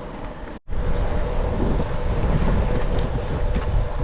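Wind rushing over the microphone while cycling, a steady loud rumble with a faint even hum above it. The sound drops out completely for a moment a little over half a second in, then carries on.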